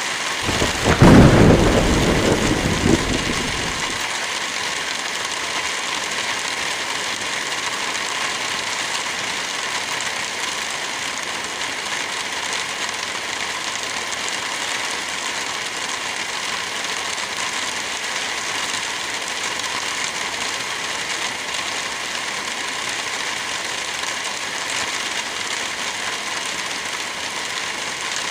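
Steady rain, with a clap of thunder about a second in that rolls on as a low rumble and dies away after a few seconds.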